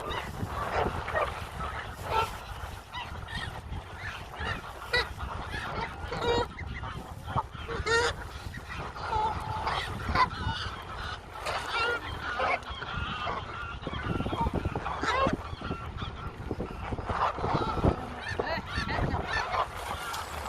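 Geese honking: many short calls one after another, scattered through the whole stretch.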